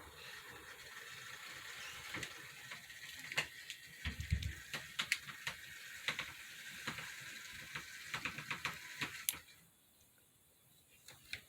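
HO scale model train running on its track: a steady hissing whirr of the small motor and wheels, with frequent sharp clicks. It goes quiet near the end.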